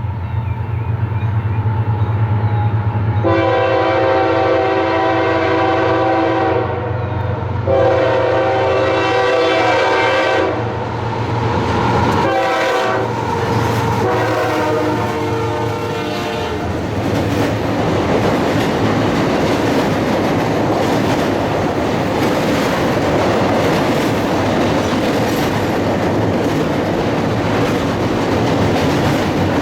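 A CSX diesel freight locomotive sounds its multi-note air horn in two long blasts, then more horn, over the hum of its engine. The train then rolls past, and the cars make a steady rumble with wheels clicking over the rail joints.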